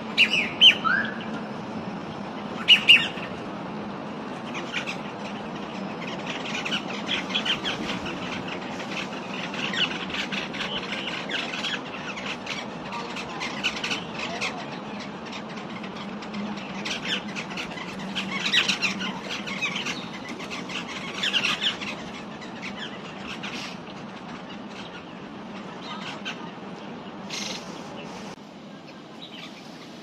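Songbirds chirping and calling in the trees: two loud, sharp calls near the start and about three seconds in, then bursts of quick chirps that thin out toward the end. A steady low hum runs underneath.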